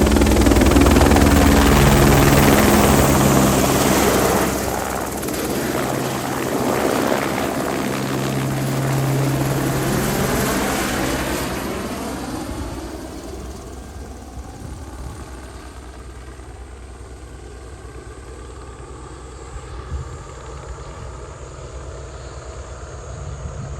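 Crop-spraying helicopter passing low and close, its rotor and engine loud at first. The sound sweeps in pitch as it goes by, then fades over about ten seconds to a steady distant drone.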